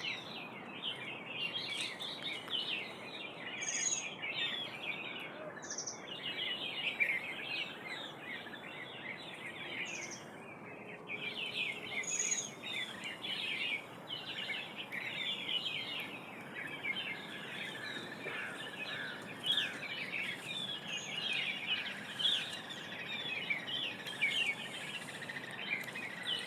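Many birds chirping and calling at once in a dense, continuous chorus of overlapping short chirps, with an occasional higher, sharper note standing out.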